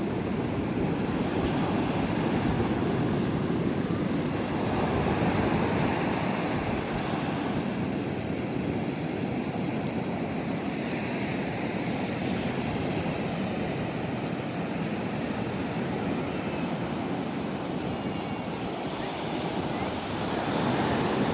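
Ocean surf breaking on a beach: a continuous wash of waves, swelling louder a few seconds in and again near the end.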